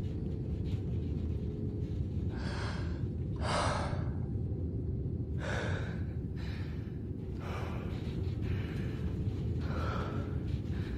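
A man breathing hard: about seven loud, irregularly spaced breaths, over a steady low airliner cabin drone.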